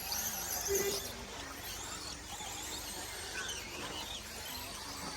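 1/10-scale 2wd short course RC trucks racing on the track, their motors whining up and down in pitch as they throttle.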